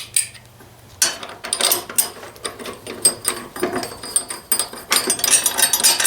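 Irregular metallic clicking and clatter of hand tools being worked on a mower, quickening into a dense run of clicks near the end.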